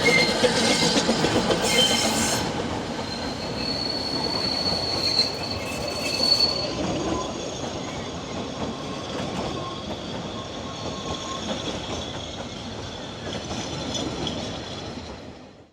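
Narrow-gauge train behind a Double Fairlie steam locomotive arriving, its wheels and carriages clattering over the rails. A high, steady wheel squeal runs from about three to six and a half seconds in, and the sound grows gradually quieter toward the end.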